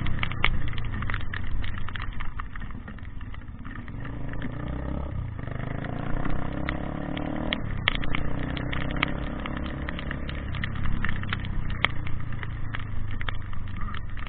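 An engine running, with a low steady hum that rises in pitch for a few seconds in the middle, and many short sharp clicks and taps over it.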